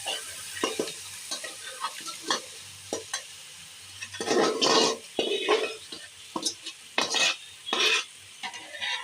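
A spoon stirring and scraping in a pot of rice frying in oil, as cooked chicken is mixed in, with a light sizzle underneath. The scrapes come in uneven strokes; the loudest are about four seconds in and around seven to eight seconds in.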